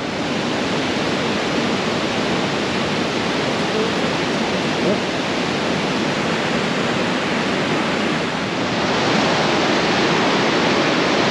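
Waterfall cascades on a mountain creek: a steady rush of falling water that grows a little louder about nine seconds in.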